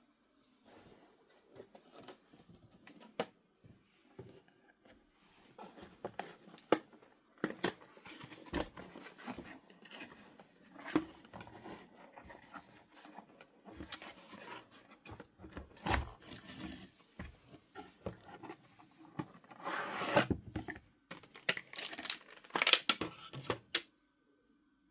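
Household handling sounds: crinkling, tearing and scraping, with many sharp clicks and knocks, busiest and loudest near the end.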